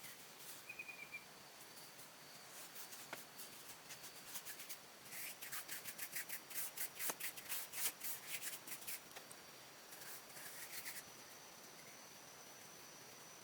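Quick runs of short scraping or rustling strokes, fastest and loudest from about five to nine seconds in and stopping about eleven seconds in, over a steady high drone of insects.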